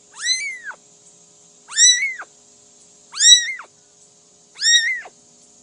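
A cat meowing four times, about a second and a half apart. Each meow is short and high, rising and then falling in pitch.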